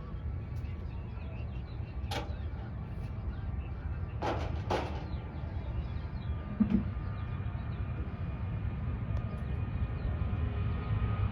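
Boeing 737-800's jet engines at a distance, a low rumble growing steadily louder with a faint whine coming up toward the end as the airliner powers up for takeoff. Three brief sharp noises in the first five seconds and a short low thump about halfway.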